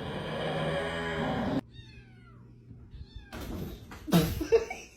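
A cat meowing.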